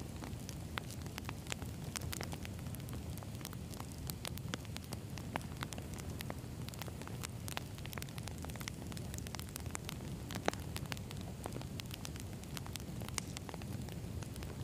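Campfire of burning firewood crackling: frequent short, sharp pops and snaps over a steady low rumble of flame, one pop louder than the rest about two-thirds of the way through.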